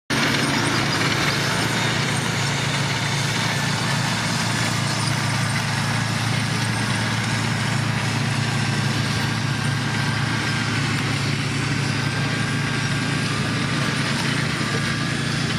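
Diesel engine of heavy construction machinery running at a steady, even speed, with a faint high whine above it.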